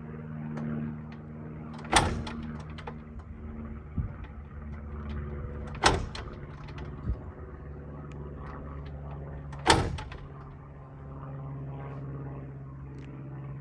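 Piper J3 Cub's engine being hand-propped and failing to start: three sharp pops about four seconds apart as the propeller is pulled through, over a steady low hum.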